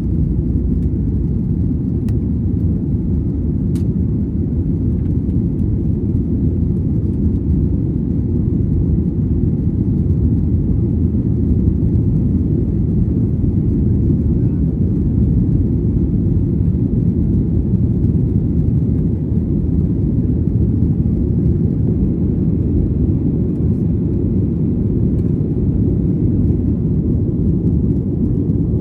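Steady low rumble of travel noise heard from inside a moving vehicle, even throughout with no changes in level.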